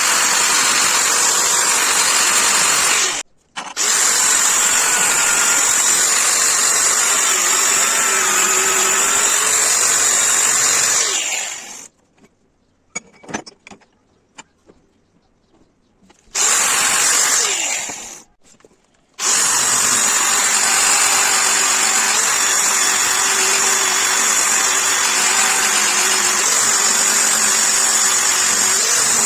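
An electric power tool runs at full speed on the workpiece with a steady, high-pitched noise. It cuts out briefly about three seconds in, winds down around eleven seconds and stays off for several seconds. It restarts, stops once more for a moment, then runs steadily again.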